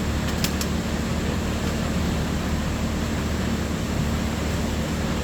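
Steady low mechanical hum and hiss, with two light clicks about half a second in.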